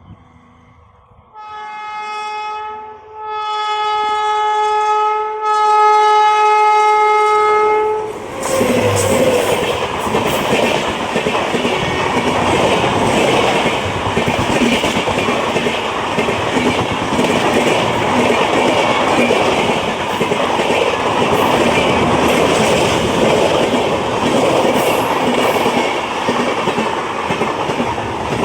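WAP-7 electric locomotive's horn sounding three blasts, the last the longest. Then an express passenger train passes close by, its wheels rumbling and clattering loudly and steadily over the rails.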